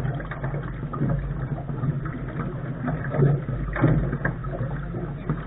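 Lark sailing dinghy under way: steady wind-and-water rush over the bow, with a few irregular knocks and splashes.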